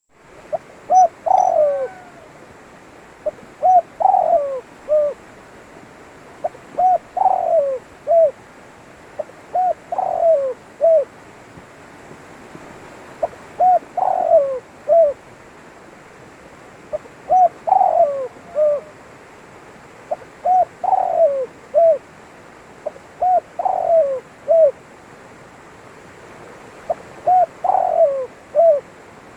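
Spotted dove (tekukur) cooing: a short phrase of several soft notes, repeated about nine times at a steady pace of one every three to four seconds, over a faint steady hiss.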